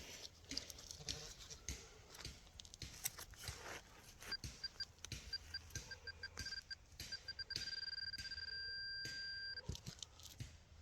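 Metal-detecting pinpointer beeping: short beeps from about four seconds in that quicken and merge into a continuous tone for about two seconds as the probe closes on a buried metal target, then break off into a few beeps near the end. Scattered clicks and knocks of digging in soil run throughout.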